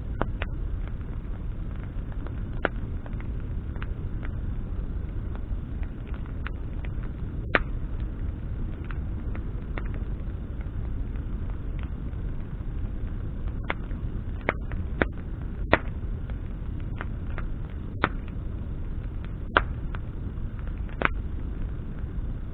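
Campfire of branches burning: a steady low rush of the flames with scattered sharp crackles and pops, more of them in the second half.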